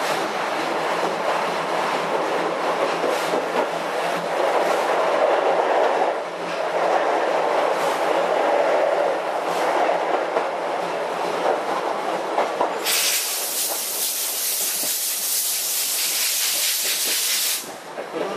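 Steam-hauled passenger train running along the track, a steady rumble with wheel-on-rail clatter. About two-thirds of the way through, a loud hiss comes in, holds for about five seconds, then cuts off suddenly.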